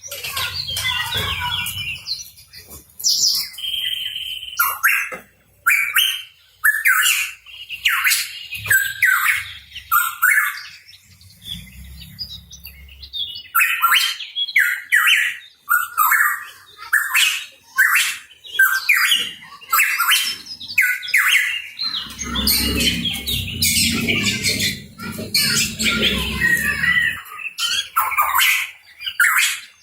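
Pitohui calling: rapid series of short, sharp chirps and squawks, one after another with brief pauses.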